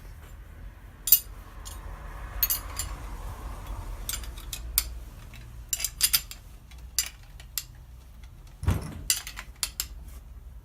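Small metal parts and tools clinking and clicking as they are handled, in irregular separate clicks, with one heavier dull knock near the end.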